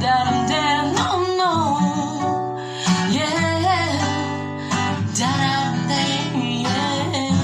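Acoustic guitar strummed with a woman singing wordless lines over it, and a chord struck near the end that rings on.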